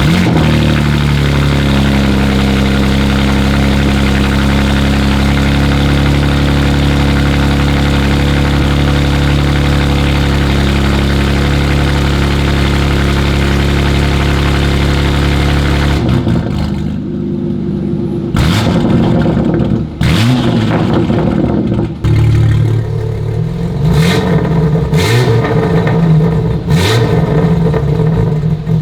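BMW G87 M2's S58 twin-turbo inline-six, breathing through a de-catted downpipe and valvetronic Track Edition exhaust, fires up and idles steadily for about sixteen seconds. It then takes a string of sharp free revs, several in quick succession near the end.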